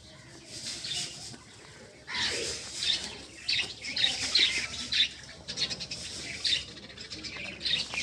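Birds chirping in a quick series of short, high calls, starting about two seconds in.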